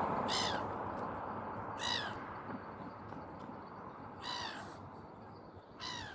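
A bird calling four times, short harsh calls that fall in pitch, spaced a second and a half to two and a half seconds apart.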